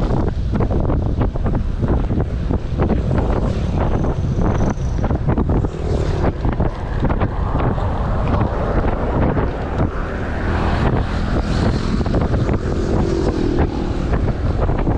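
Wind buffeting the camera microphone on a moving bicycle: a loud, continuous low rumble with irregular gusty flutter throughout.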